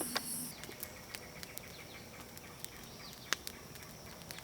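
Campfire crackling faintly, with sparse sharp pops and snaps scattered irregularly, the loudest a little past three seconds in.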